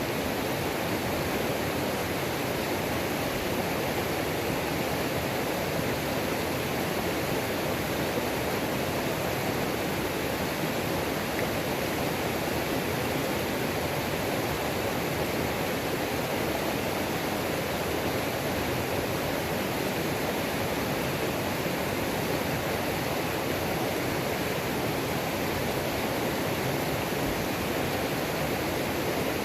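Mountain creek water pouring over a waterfall and rushing over rocks: a steady, even roar of falling water.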